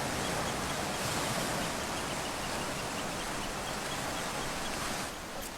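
Sea surf washing on a beach, a steady rushing that eases slightly near the end.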